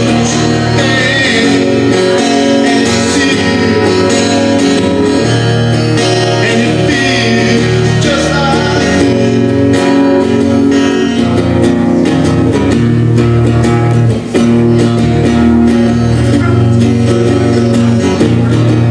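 Live song played on guitar, with a voice singing over it through roughly the first half and then guitar strumming on its own.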